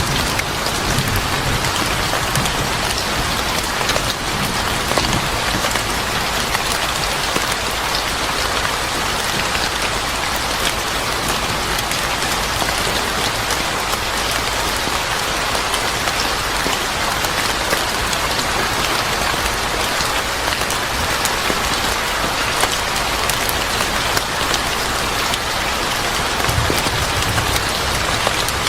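Steady heavy rain falling on a surface, with a dense patter of drops. A low rumble of distant thunder comes in near the end.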